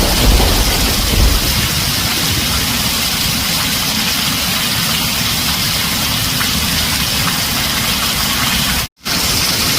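Heavy rain drumming steadily on a tin roof, with the tail of a low thunder rumble dying away in the first second or so. The sound cuts out for a split second near the end.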